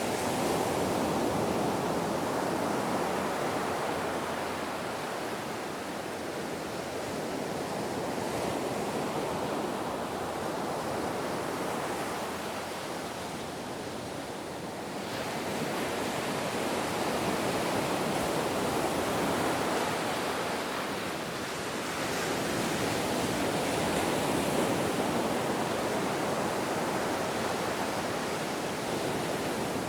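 Ocean surf: a continuous wash of breaking waves that swells and ebbs slowly, with a lull about halfway through.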